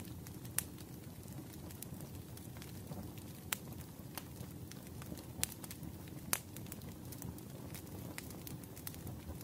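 Wood fire crackling in a fireplace: a steady low rumble with scattered sharp pops, four of them louder than the rest.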